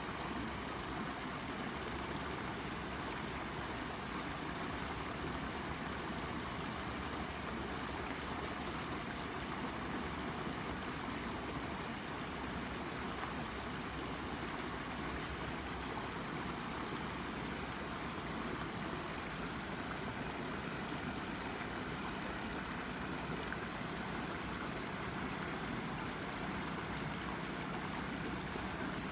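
A shallow brook babbling steadily as it flows over and around a rock.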